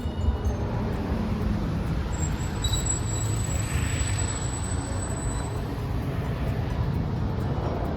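Street traffic with Hiroshima streetcars: a steady low rumble of vehicles, with a thin high whine from about two seconds in to about five and a half.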